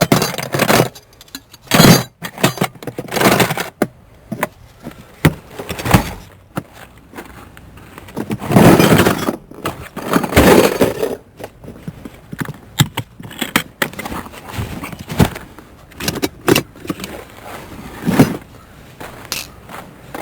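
Irregular metallic clinks, knocks and rattles of hand tools and parts being handled during car repair work, with a denser run of clatter about halfway through.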